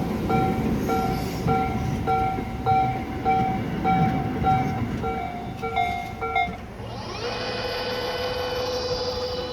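Tobu 8000 series electric train pulling into a station, its low running rumble under a level-crossing warning bell that rings about twice a second. The bell stops about six and a half seconds in, and a whine from the train rises and then holds steady.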